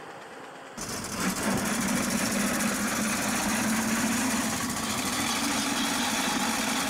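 Small engine of a pre-1918 veteran car running steadily as the car drives along. The sound comes in suddenly a little under a second in.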